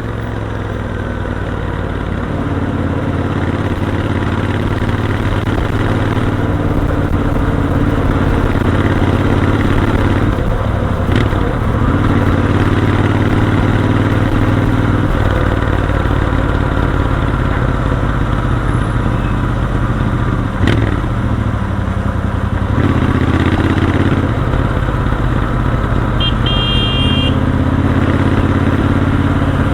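Royal Enfield Continental GT 650's parallel-twin engine running at highway speed, its note dipping and picking up again a few times as the throttle is eased and reopened. A brief high beep sounds near the end.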